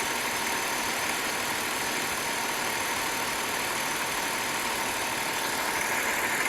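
BMW six-cylinder engine idling steadily, an even running sound with little deep rumble.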